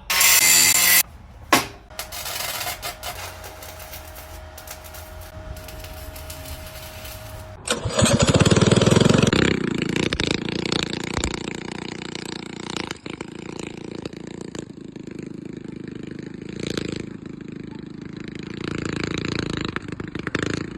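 Small minibike engine with a newly fitted torque converter: a short loud rattling burst at the start, then about eight seconds in the engine starts suddenly and runs loudly, its revs rising and falling.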